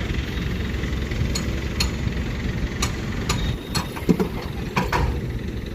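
Eicher 485 tractor's diesel engine running with a steady low rumble, with several sharp clicks and knocks over it.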